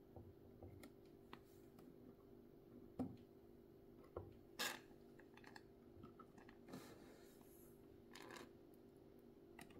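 Faint scattered clicks and light knocks of a vintage Kenmore sewing machine being handled after oiling, over a steady low hum.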